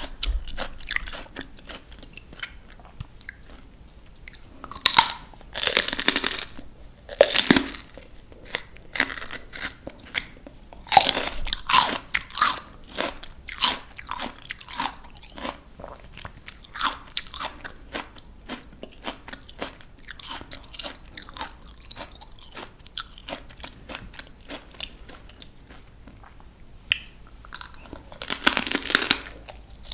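Crisp raw vegetables being bitten and chewed close to the microphone: a few loud crunching bites, with steady wet, crackly chewing between them.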